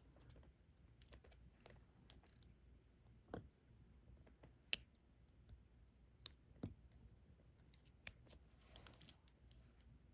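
Faint, irregular small plastic clicks and taps: a diamond-painting stylus picking up resin drills and pressing them onto the sticky canvas. A few taps, a little past a third of the way in and near the middle, stand out from the rest.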